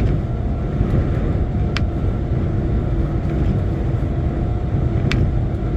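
Steady low rumble of a lorry's engine and tyres heard inside the cab while driving, with three short sharp clicks.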